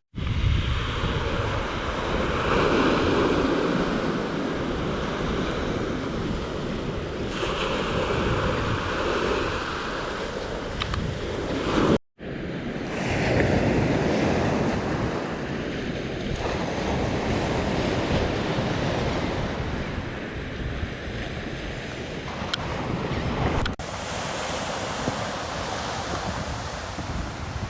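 Gulf of Mexico surf breaking and washing on a beach in repeated surges, with wind buffeting the microphone. The sound breaks off abruptly about twelve seconds in and changes character again near the end, where recordings are joined.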